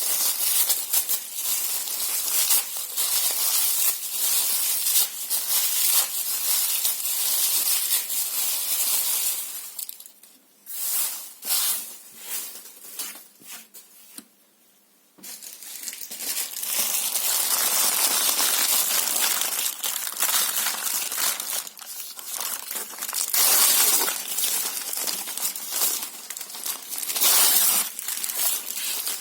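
Paper and cardboard being torn and crumpled by hand, a dense crackling and ripping that dies away into a short lull near the middle and then starts up again.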